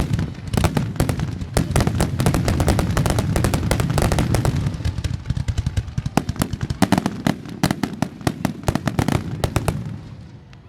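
Fireworks display: a rapid, dense barrage of aerial shell bursts and crackling reports over a low rumble, thinning out and fading away near the end.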